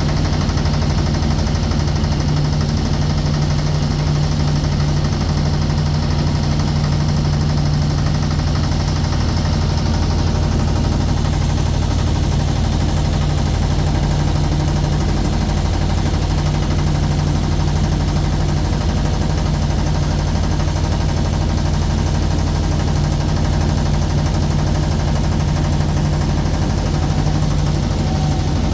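Motorboat engine running steadily at an even pace, a constant low hum with no change in speed.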